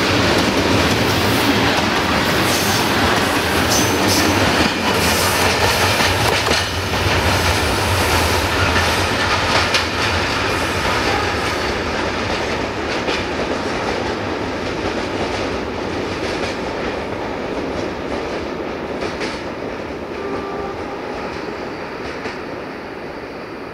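Freight train's hopper wagons rolling past, wheels clicking and clattering over the rail joints, then the sound fading steadily as the train moves away.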